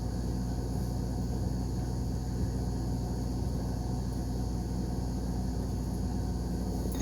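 Steady low background rumble and hum, unchanging throughout.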